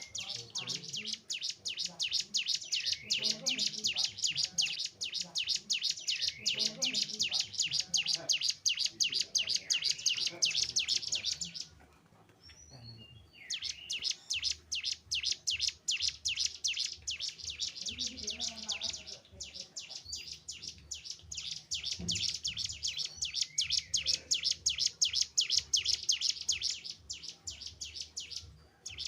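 Cigun (ciblek gunung, a prinia) singing a rapid run of sharp, high repeated notes in long bursts, with a pause about twelve seconds in.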